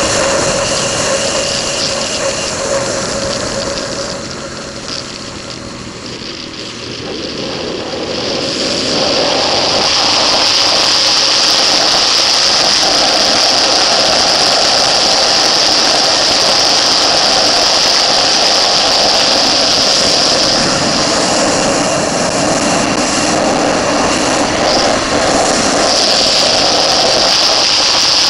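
Motorcycle engine running at speed, heard close up from an onboard camera. It drops off for a few seconds about four seconds in, then builds back up and holds steady and loud, easing slightly once more near the end.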